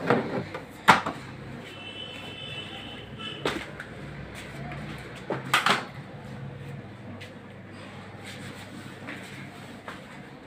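A few sharp knocks or taps a second or more apart in a small, quiet room, the clearest about a second in and about five and a half seconds in.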